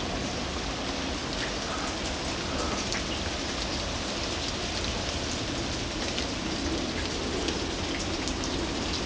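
Steady hiss of a wet snowfall landing on the ground and surfaces, with faint scattered ticks.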